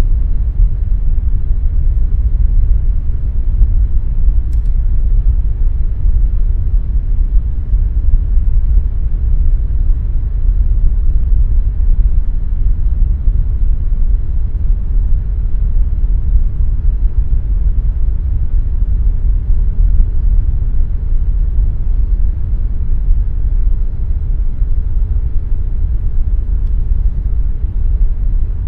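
Air conditioner running steadily, a deep even rumble with a faint steady hum over it.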